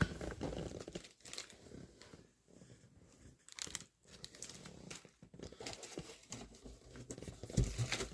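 Plastic parts bags crinkling and rustling, handled irregularly with short crackles.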